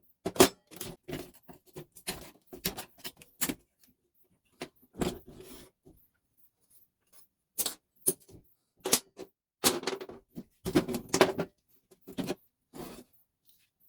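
Irregular clicks, knocks and clatter of hand tools and small metal and plastic parts as a Telemecanique fuse switch is taken apart, with a pause of a second or so around the middle.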